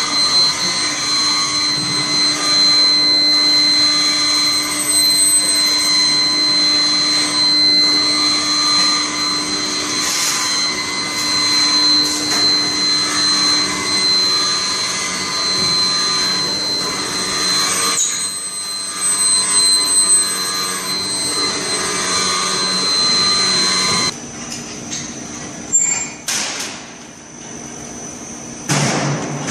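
Steady industrial machine noise with a high whine over it. The whine cuts off suddenly about three-quarters of the way through, and a few sharp metallic knocks follow near the end.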